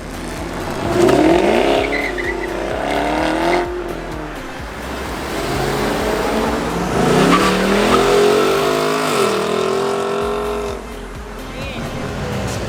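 A car engine revving up hard as the car accelerates away, the pitch climbing about a second in and again around six to seven seconds in.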